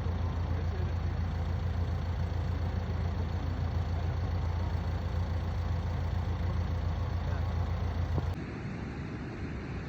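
Steady low drone of a running vehicle engine. About eight seconds in it cuts off abruptly and gives way to a quieter, even hiss of wind.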